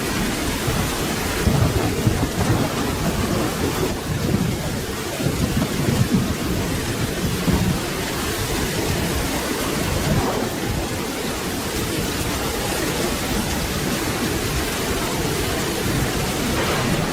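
Steady rain with low rolling thunder rumbling underneath, the rumble strongest in the first half.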